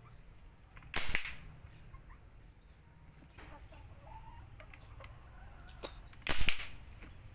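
Homemade PVC pipe gun firing twice, about five seconds apart: each shot is a single sharp bang that dies away quickly.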